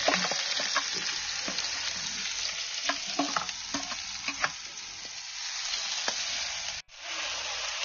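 Chopped onions sizzling in hot mustard oil in a kadhai, a steady frying hiss, with scattered metallic clinks of a ladle as they are stirred. The sound breaks off for an instant about seven seconds in.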